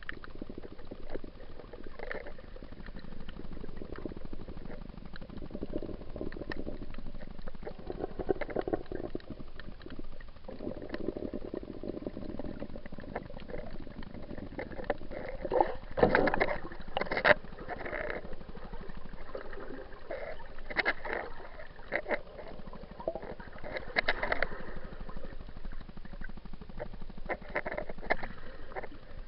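Muffled water sloshing and gurgling around an action camera in its waterproof housing, with scattered clicks and several louder splashing surges in the second half.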